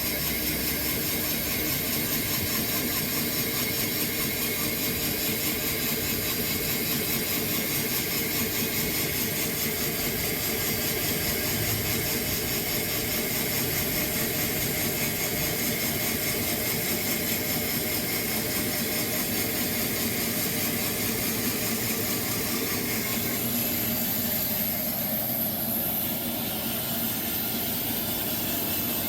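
Sawmill running steadily as it cuts a walnut log, a constant engine-and-blade noise with a high whine. The sound shifts about 24 seconds in.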